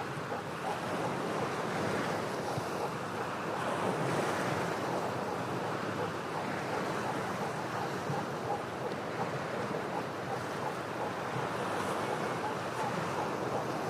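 Ocean waves washing and breaking against shoreline rocks, a steady rush of surf that swells and eases gently.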